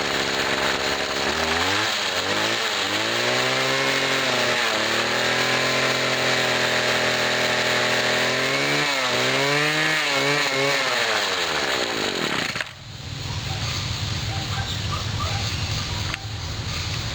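1997 Husqvarna 24cc two-stroke string trimmer engine revving up and down repeatedly on the throttle, then falling back to idle about two-thirds of the way through. It revs without bogging now that the carburetor has a new metering diaphragm, though the owner feels the idle may need adjusting.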